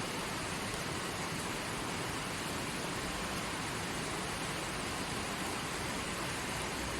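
Forest creek flowing, a steady rush of running water.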